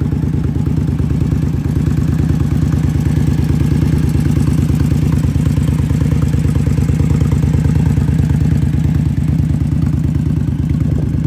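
2016 Indian Scout Sixty's liquid-cooled V-twin idling steadily through Vance & Hines aftermarket exhaust pipes, with an even, pulsing beat that grows a little louder through the middle.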